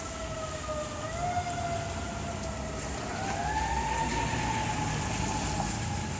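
Emergency vehicle siren wailing slowly, its pitch rising about a second in and again near the middle, over steady heavy rain.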